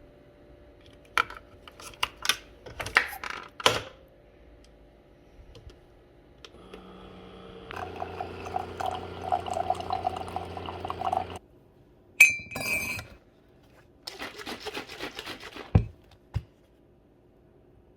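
Kitchen handling sounds: dishes and glassware clink and knock, then a small appliance hums steadily for about four seconds. A sharp ringing clink follows, then a couple of seconds of hissing like liquid pouring, ending in two low thumps.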